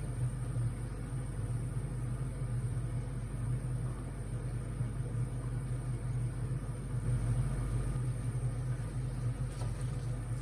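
A steady low motor hum that holds evenly throughout.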